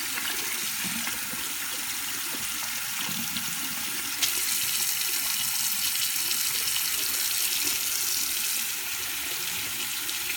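Water running steadily from a tap. About four seconds in there is a click and the flow gets louder for a few seconds.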